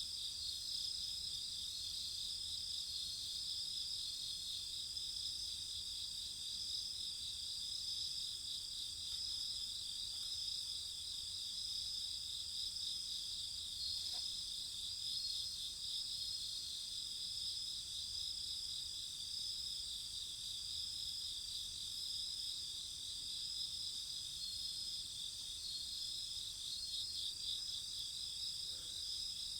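Steady chorus of crickets, continuous fast trilling in several high pitches, with one faint tick about halfway through.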